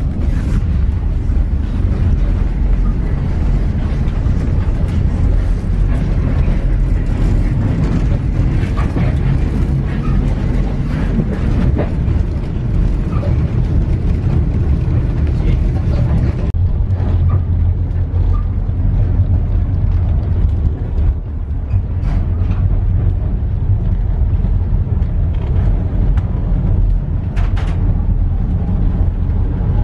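Indian Pacific passenger train running along the rails, heard from inside a carriage: a steady, loud low rumble with scattered rattles and clicks. About halfway through the sound turns duller as the hiss above the rumble drops away.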